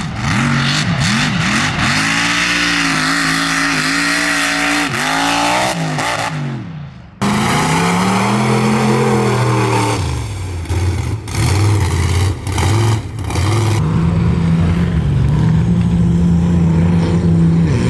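Mud/mega truck engines revving hard, pitch climbing and falling repeatedly, in several clips cut together: an abrupt change to a different engine about seven seconds in, and a steadier, choppier engine note for the last few seconds.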